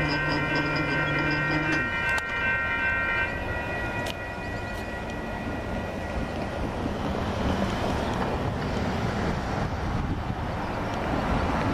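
A Metra commuter train pulling away. A held warning sound of several steady tones, with a quick ticking pulse over it, cuts off within the first three seconds. Then the low rumble of the receding train goes on, and wind buffets the microphone more toward the end.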